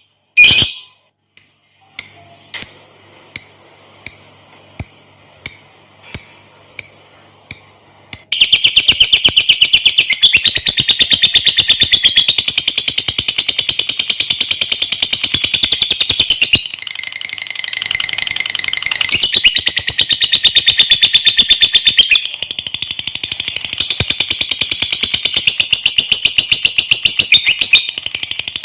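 Lovebird singing: a string of short, sharp, high chirps, then from about eight seconds in a long, very rapid, unbroken high-pitched chatter, the 'ngekek panjang' trill. It eases briefly near the middle and then goes on.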